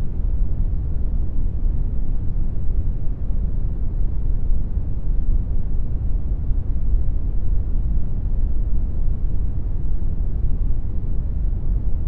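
Synthetic brown noise: a steady, deep rushing hiss, strongest in the low end and fading toward the top, with no change.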